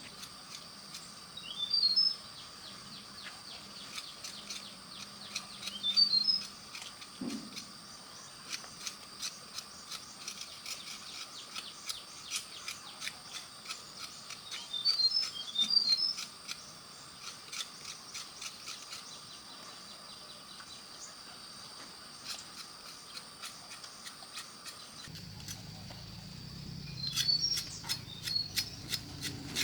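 Birds chirping in short bursts about four times, over a steady high insect drone and a run of rapid light clicks.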